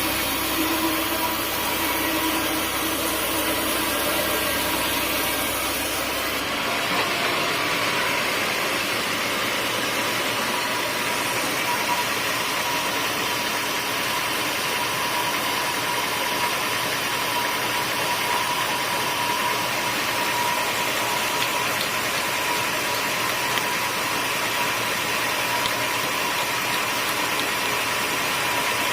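Sawmill machinery running steadily. About six seconds in the sound shifts and the low rumble drops away.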